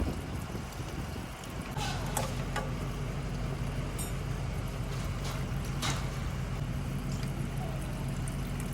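A steady low engine hum sets in about two seconds in and runs on evenly, with a few light metal clinks of small parts being handled.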